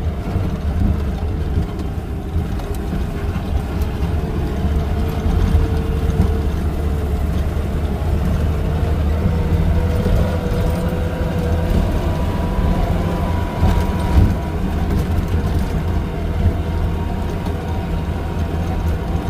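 Maruti Gypsy's engine running steadily as the car drives slowly along a sandy dirt track, with a faint whine that rises slightly in pitch and a few brief knocks as it goes over bumps.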